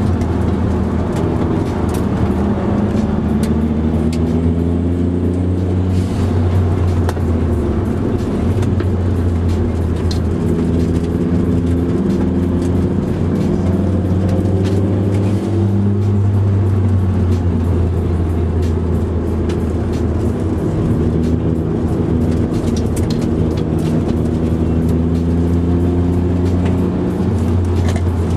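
Car engine heard from inside the cabin while lapping a circuit. The engine note climbs in pitch several times and drops back at each gear change or lift, over a steady low drone.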